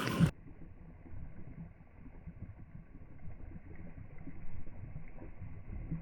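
Faint, muffled low rumbling background noise with no clear source, the highs suddenly cut off just after it begins.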